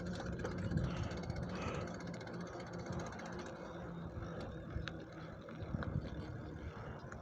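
Road and traffic noise heard while riding a bicycle: a steady engine hum that fades after about three seconds, over wind rumble, with a few light knocks and clicks.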